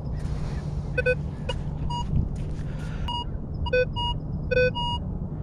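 Minelab Vanquish 440 metal detector sounding short target beeps as its coil is swept over buried metal in beach sand, some beeps lower-pitched and some higher. Under them runs a steady low rumble.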